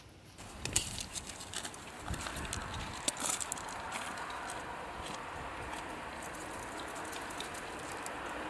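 A few light clicks and rustles, then from about two seconds in a steady rushing of strong wind.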